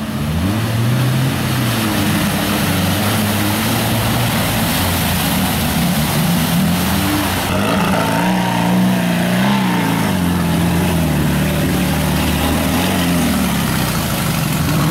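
Off-road vehicle engines revving hard through a muddy creek, the pitch rising and falling with the throttle over the noise of water and mud churning. About halfway through, the sound changes as a second vehicle, a tube-frame buggy, takes over from a Jeep.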